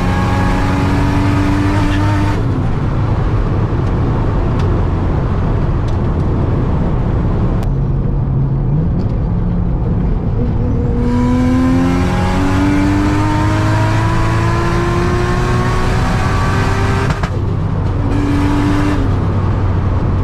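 Nissan Stagea's engine accelerating hard in a highway pull. Its pitch climbs, drops at a gear change about two seconds in, climbs again from about eleven seconds and drops at another gear change near seventeen seconds.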